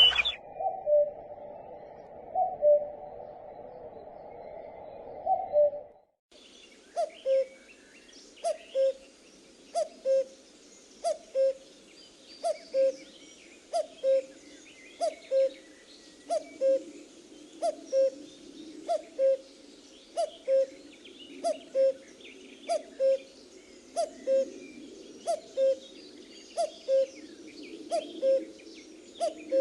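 Common cuckoo (Cuculus canorus) calling its two-note "cuck-oo", a higher note dropping to a lower one, repeated steadily about once every second and a bit from about six seconds in. Before that, a fainter stretch with a few scattered notes cuts off into a brief gap.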